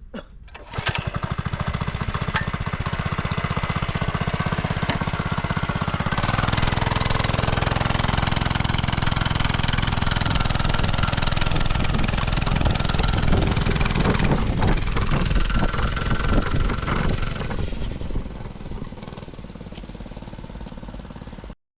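Small single-cylinder Lifan 100cc, 2.5 hp engine of a kids' petrol minibike running. It comes in sharply about a second in and runs faster and louder from about six seconds. Near eighteen seconds it settles back to a lower, steadier run, then cuts off suddenly near the end.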